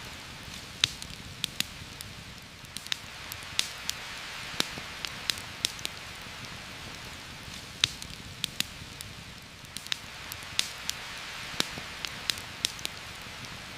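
Steady heavy rain hiss with irregular sharp pops and ticks, several a second at times, scattered over it.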